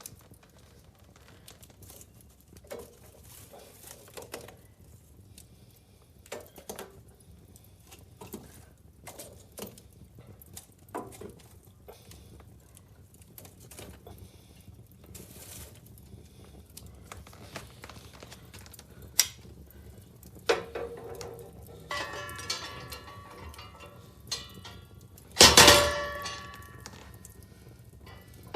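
Wood fire burning in a fireplace: sparse snaps and pops of crackling logs, growing busier in the last third. One loud burst of crackle comes about three-quarters of the way through.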